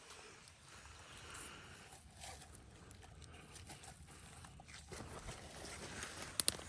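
Footsteps crunching through dry leaf litter on a forest floor over a low wind rumble on the microphone, with a couple of sharp snaps near the end.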